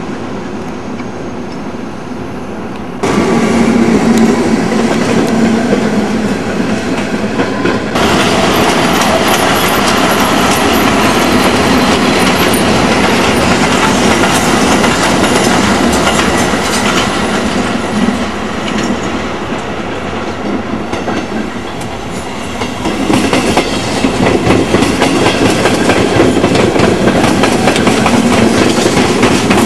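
Trains running through a station close by, with the steady clatter of wheels over rail joints. The noise jumps up suddenly about three seconds in and again a few seconds later, eases for a while, then builds again near the end.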